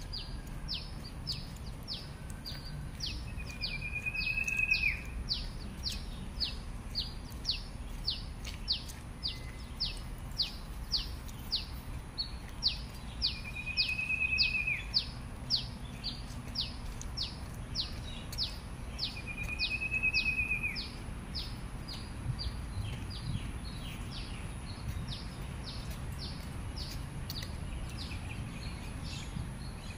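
Birds calling: a long run of short, high notes that each drop sharply in pitch, about two a second, dying away near the end, with three louder arched whistles spread through it. A low steady rumble lies underneath.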